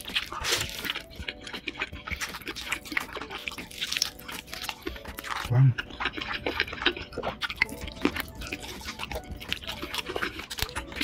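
Close-miked chewing of a sauce-glazed fried chicken leg: many quick crunches and wet mouth clicks and smacks, with a brief low hum about halfway through.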